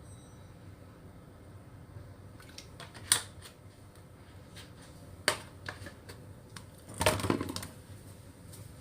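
A few sharp clicks and knocks of kitchen containers and utensils being handled: a single one about three seconds in, another about five seconds in, and a short rattling cluster about seven seconds in.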